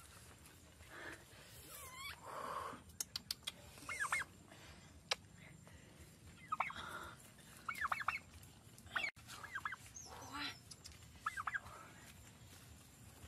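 Birds calling: several short clusters of quick, sharp chirping notes, one every second or two, with a few light clicks among them.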